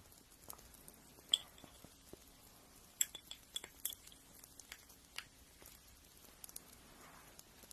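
Faint, irregular small clicks and light taps, as of nail-care tools being handled, the sharpest about a second in and three seconds in, with a brief faint scratch near the end.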